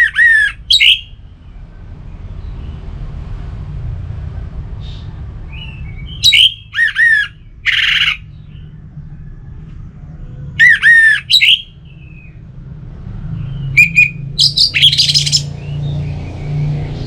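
Orange-headed thrush singing in loud short bursts of quick, falling notes, four phrases spaced a few seconds apart, over a low steady rumble.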